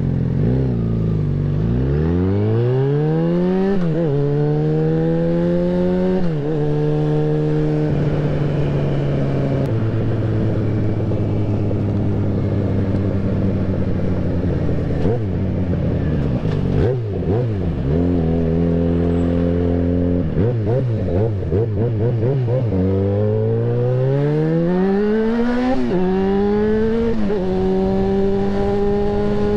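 Yamaha XJ6N motorcycle's inline-four engine accelerating through the gears. The pitch climbs and drops back at upshifts about 4, 6 and 8 seconds in, then holds steady for a while. The throttle comes on and off unevenly in the middle, and near the end the engine pulls hard again with another upshift.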